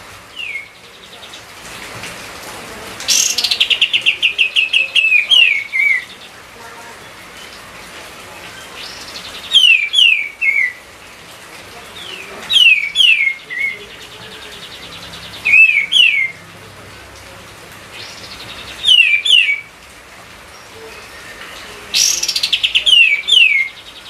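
A kapas tembak songbird singing in full voice: short phrases of clear, downward-slurred whistled notes repeated every few seconds, two of them led by a fast rattling trill.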